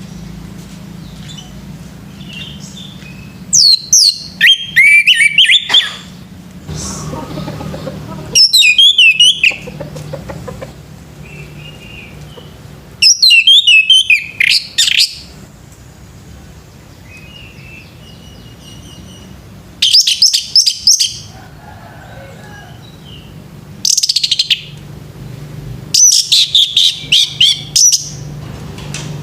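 Male orange-headed thrush singing: about six loud bouts of fast, varied whistled phrases with quick rising and falling notes, each lasting one to two seconds, over a low steady hum.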